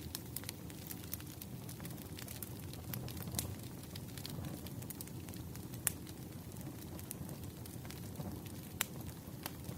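Burning firewood crackling: irregular sharp pops, a few of them louder, over a low steady rush of flame.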